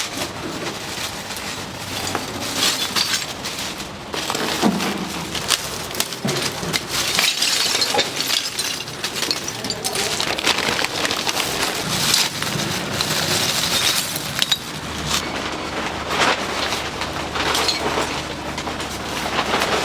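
Street-food kitchen work: a steady crackling hiss with frequent clinks and knocks of utensils and cookware.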